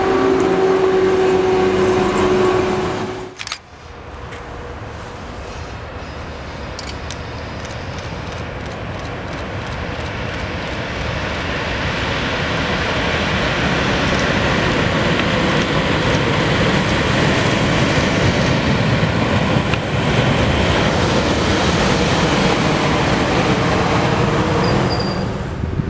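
Passenger coaches of an InterCity train hauled by an EP07 electric locomotive rolling past on the rails, with a steady tone in the running noise, cutting off abruptly about three and a half seconds in. Then the running noise of an EP05 electric locomotive and its train drawing in along a station platform, growing louder over about ten seconds and then holding steady.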